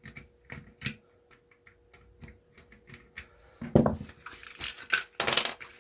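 Irregular light clicks and taps of a screwdriver and small metal and plastic parts being handled while a small pump motor is taken apart. There is a louder knock just before four seconds in and a short clatter a little after five seconds.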